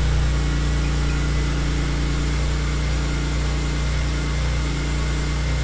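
BMW E46 M3's S54 3.2-litre straight-six idling steadily on its first start-up after a Vanos rebuild and valve adjustment.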